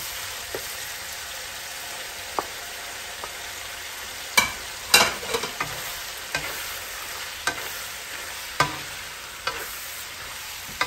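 Chicken innards stir-frying in a pan with a steady sizzling hiss. About seven sharp knocks and scrapes of a stirring utensil against the pan come at irregular spacing, the loudest a little under halfway through.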